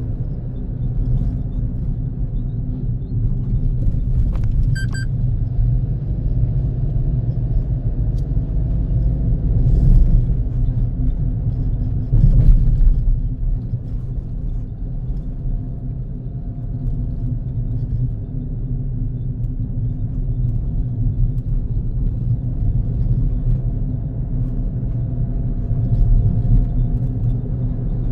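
Car driving at speed, with a steady low rumble of road and engine noise. Two brief thumps come about ten and twelve seconds in.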